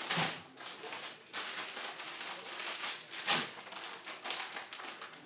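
Cleaning and handling noises: rubbing, rustling and scrubbing, with a sharp knock just after the start and another about three seconds in.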